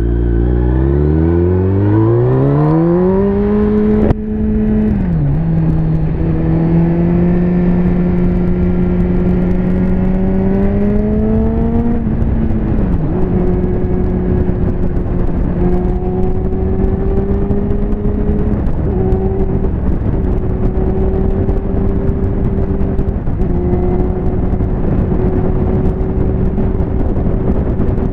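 Liter-bike motorcycle engine accelerating hard at the start, its pitch rising steeply until an upshift about four seconds in. It then pulls with slowly rising pitch to a second upshift around twelve seconds in and runs at a steady pitch, easing off briefly twice near the end, all under a heavy rush of wind noise.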